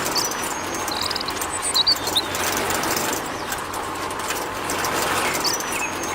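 Short high bird-like chirps over a steady hiss, the same group of chirps coming round again about every five and a half seconds.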